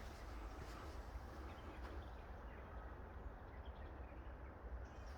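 Quiet outdoor ambience: a steady low rumble and soft hiss, with a few faint, distant bird chirps.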